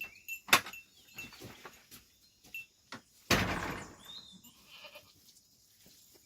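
Sheep and goats in a pen, with scattered knocks and scuffling and a sharp knock about half a second in. About three seconds in comes one short, harsh, noisy burst, the loudest sound.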